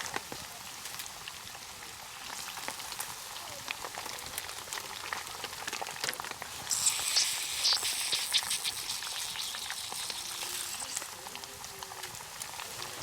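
Chicken deep-frying in oil over a campfire: a steady crackling sizzle, which turns louder and brighter about seven seconds in and settles back down about four seconds later.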